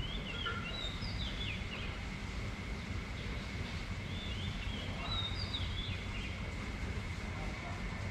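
Wind rumbling on the microphone over a steady hiss of rain. A bird sings two short phrases of quick chirping notes, one at the start and one about four seconds in.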